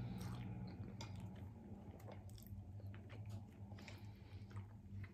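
Close-up chewing of soft, chewy tteokbokki rice cakes, with small wet mouth clicks scattered through it, over a faint steady low hum.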